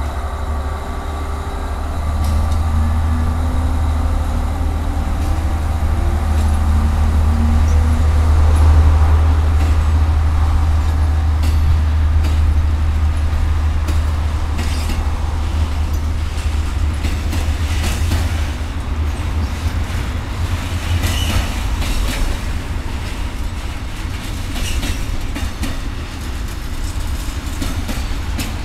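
Freight train's diesel locomotive running under power, its engine note rising over the first several seconds. The train's wagons then roll past with wheels clattering over the rails and a brief squeal.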